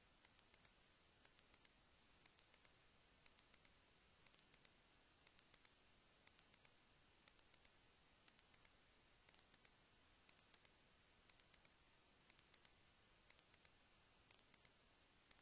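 Faint, sharp clicks in irregular small clusters of two to four, over a low steady hiss.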